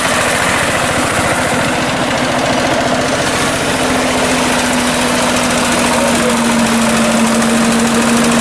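Diesel walking tractor (power tiller) engine running loud and close, with a fast, even chugging beat and a steady hum.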